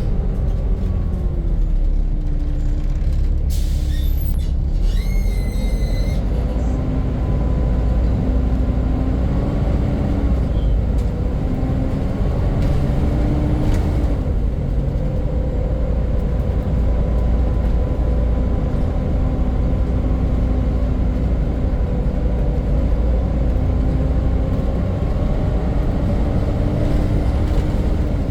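Volvo B7 double-deck bus's diesel engine running on the move, its note falling and rising with speed, over a steady whine, the loud 'hoover' sound this bus is known for. About four seconds in comes a short hiss and squeal, typical of the air brakes.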